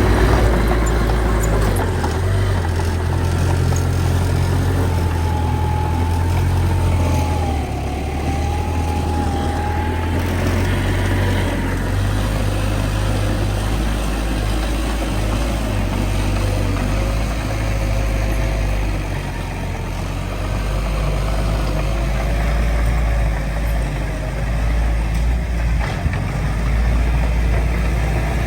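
Heavy diesel engine of earthmoving machinery running steadily, with a faint wavering whine above the low rumble during the first half.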